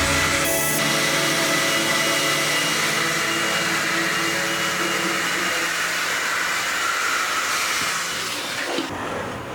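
An electric power tool running steadily with a whirring, hissing noise, fading out near the end.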